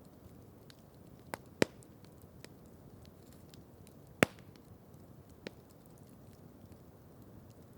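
Campfire crackling: scattered sharp pops and faint ticks from the burning wood. A pair of pops comes about a second and a half in, and the loudest pop comes about four seconds in, over a low, steady hiss.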